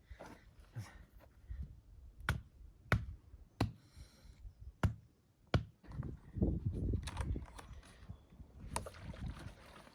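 Firewood being chopped: a series of sharp knocks about a second apart, with rustling and handling of wood in between.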